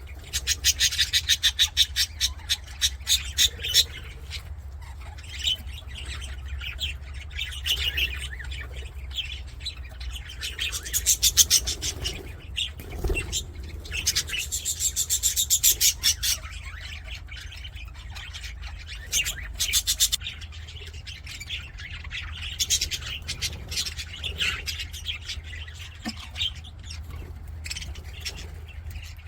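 Budgerigars chirping and chattering, broken several times by quick runs of rapid clicking chirps, over a steady low hum.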